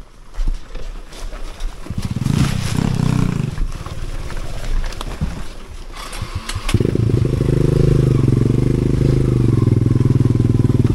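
Dirt bike engine: a short run of engine sound with shifting pitch about two seconds in, a few clicks, then from about seven seconds in the engine running steadily and loudly.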